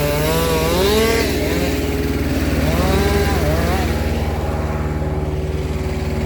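A chainsaw revving up and down twice, in the first second and a half and again around three seconds in, over the steady running of a heavy engine.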